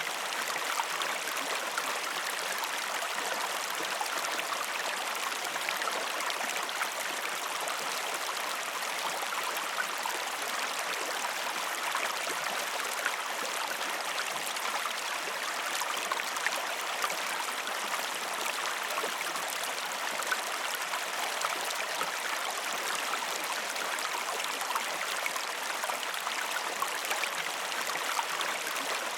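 A waterfall's steady rush of falling water, even throughout, with fine splashing.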